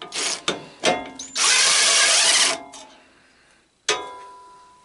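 Cordless battery impact driver run in a few short bursts, then one longer burst of about a second, working a small screw. Near the end a single sharp metallic clink that rings on and fades.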